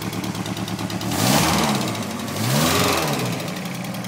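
Mk2 VW Golf's draw-through turbocharged four-cylinder engine on a Weber 45 carburettor, idling with an even pulse and then revved twice, its pitch rising and falling each time. The tacked-up exhaust is blowing a lot, which sounds like a big jumble of exhaust blows.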